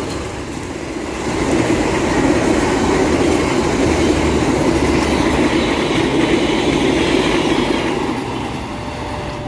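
Train passing close by at speed, a loud steady rumble and rush of wheels on the rails that swells about a second and a half in and eases off near the end.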